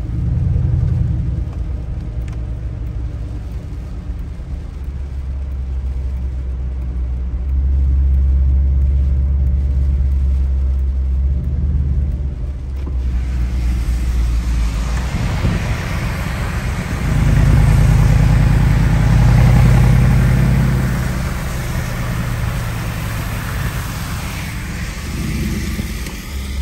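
Mercedes G63 AMG Brabus V8 engine drone and road noise heard from inside the cabin while driving on a wet road; the engine drone swells twice as the car pulls. From about halfway a hiss of rain and wet tyres grows louder.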